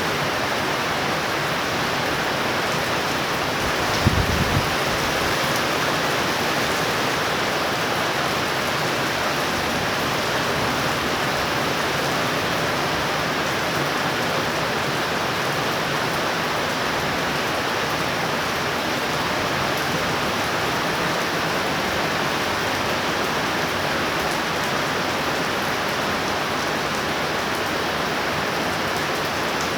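Heavy torrential rain pouring down in a thunder shower, a steady, unbroken hiss, with one brief low thump about four seconds in.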